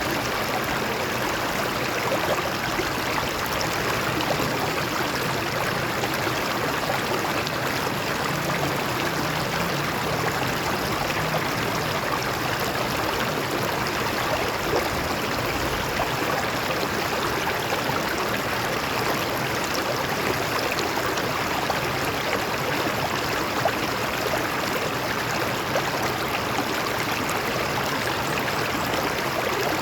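A stream running steadily over rocks, a continuous rushing with small splashes and gurgles.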